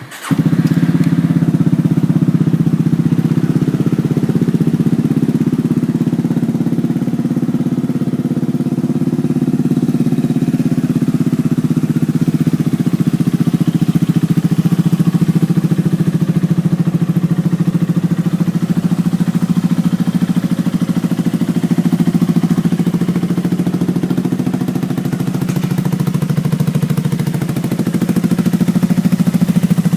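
Yamaha Maxam scooter's single-cylinder four-stroke engine breathing through an aftermarket MUSASHI muffler. It comes in suddenly right at the start, then runs steadily at idle.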